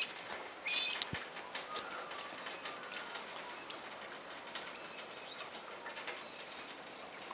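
Small bird giving scattered short, high chirps, a few near the start and more brief chips later. Light drip-like ticks run throughout.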